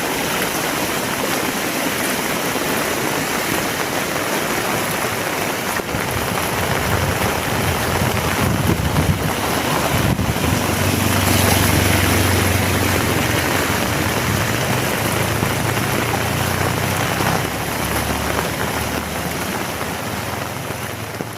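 Heavy rain falling, a dense steady hiss. A low hum builds in the middle and fades near the end.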